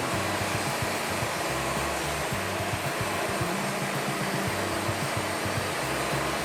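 Steady rushing noise of a band sawmill cutting timber, under background music with a moving bass line.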